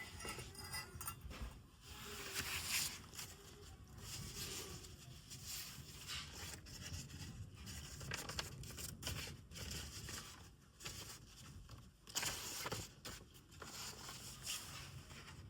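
Quiet handling noises: scattered light clicks and rustling.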